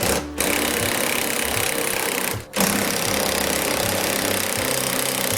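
Power tool spinning a 10 mm socket to back out the headlight's mounting screws, in two long steady runs with a short break about two and a half seconds in.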